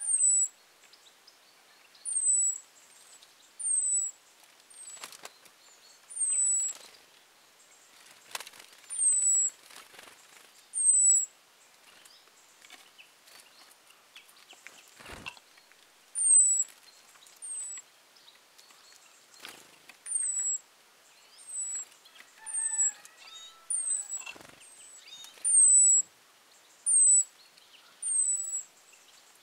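A small bird repeating a very high, thin note that slurs downward, about once every one to two seconds, with a pause of about five seconds in the middle. A lower bird call comes in about two-thirds of the way through, and a few soft thumps are heard.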